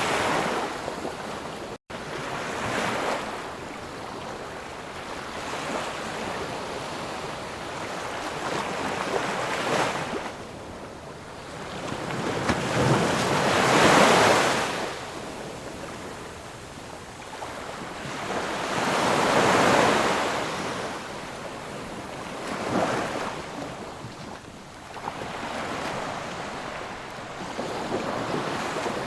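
Sea surf: waves breaking and washing in, rising and falling every four to six seconds, the biggest swells about halfway through. There is a momentary cut-out in the sound about two seconds in.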